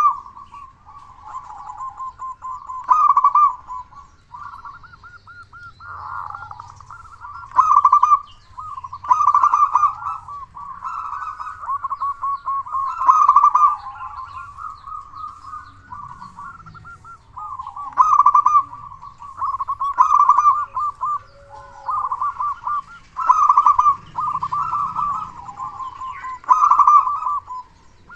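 Zebra dove (perkutut) cooing: one rolling, trilled coo phrase after another, with no real pause, some phrases much louder than others.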